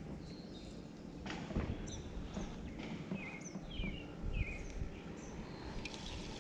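Birds calling: a series of short high chirps and quick downward-sliding notes, over a steady low rumble. A single sharp knock sounds about a second and a half in.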